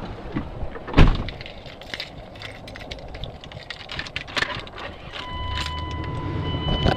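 A loud thump about a second in, as of the Dodge Dakota's door being opened, followed by scattered clicks and knocks. From about five seconds in, a steady electronic tone sounds over a low hum.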